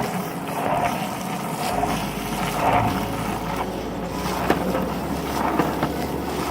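Longboard wheels rolling on wet pavement: a steady rumble with a couple of sharp clicks in the second half.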